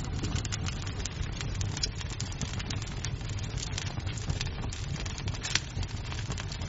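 Wood fire crackling in a fireplace: a dense run of small pops and snaps over a steady low rumble of the flames, with one sharper pop a little past the middle.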